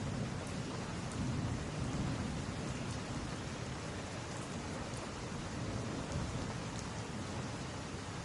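Steady rain on glass, with a low rumble that swells over the first few seconds and then eases. Faint, sparse crackles of a wood fire sound over the rain.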